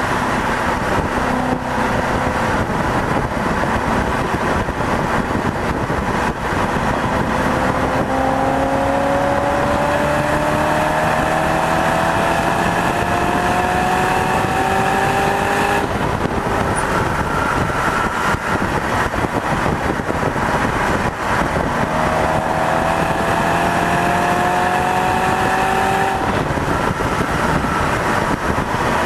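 Car engine pulling hard at speed around a racetrack, under a constant rush of wind and road noise. Its note climbs steadily for several seconds, breaks off sharply about halfway through, then climbs again near the end.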